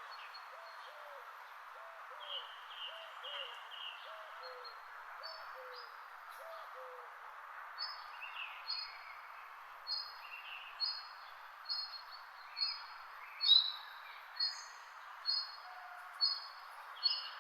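Birds calling over a steady background hiss. A low hooting note repeats about twice a second through the first half. From about five seconds in, a higher, sharp call repeats roughly once a second and is the loudest sound.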